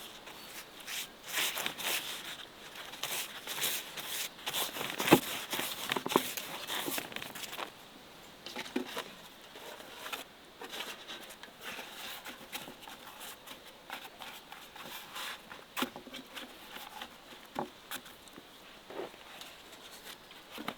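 Irregular rustling, crinkling and clicking, dense and busy for the first several seconds, then thinning to scattered clicks.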